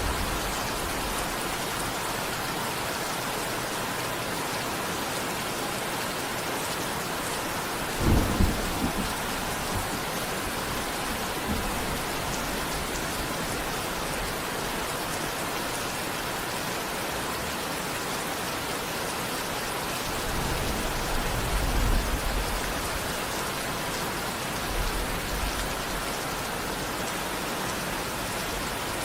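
Steady rain falling, with thunder: a sudden sharp clap about a quarter of the way in, then a longer low rumble that swells and fades later on.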